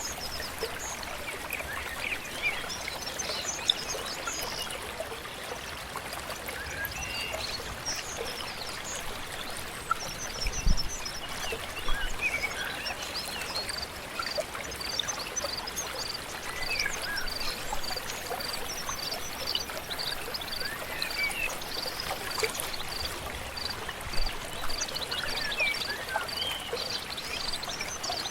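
Several birds chirping and singing over a steady flowing stream. From about halfway through, a high short note repeats about twice a second.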